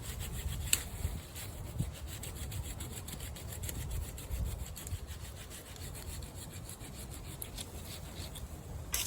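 Hand saw cutting through a tree branch in steady, repeated back-and-forth strokes.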